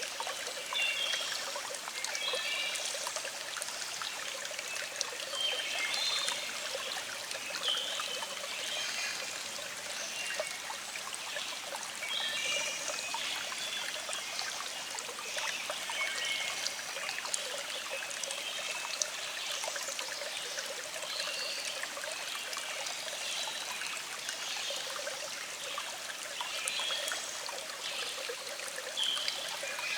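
Small stream flowing with a steady trickling rush. Birds sing faintly in the background in short, scattered phrases.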